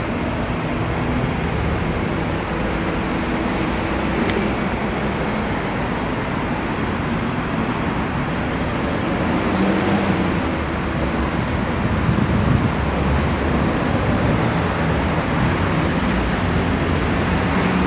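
Steady urban road traffic noise, with the low hum of vehicle engines.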